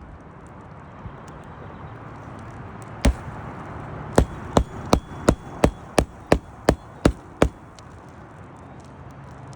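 Hammer driving roofing nails into a shingle: a single blow, then a quick, even run of about ten strikes at roughly three a second.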